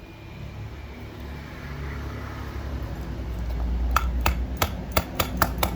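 A low rumble growing louder, then a run of sharp clicks and knocks, two or three a second, from about four seconds in.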